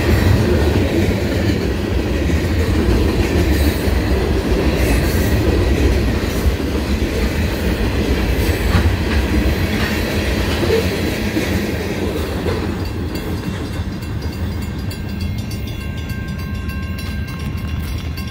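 Freight train cars rolling past: a steady rumble with the clickety-clack of wheels over rail joints, growing quieter over the last few seconds as the tail end of the train passes.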